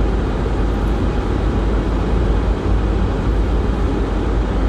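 Steady road noise of a car being driven, heard from inside the cabin: a constant low rumble of engine and tyres with a hiss above it.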